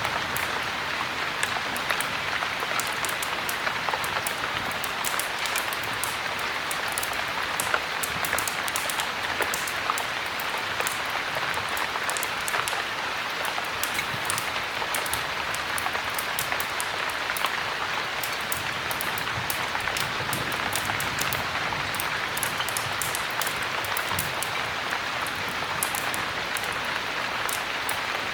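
Heavy rain falling steadily, mixed with the crackle of a wood fire: many small sharp pops and clicks throughout.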